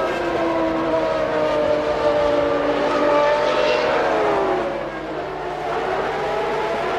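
Several 1995 Formula One cars' naturally aspirated 3-litre engines running at high revs, their notes overlapping at different pitches; about four seconds in one note falls in pitch as a car goes past or lifts off.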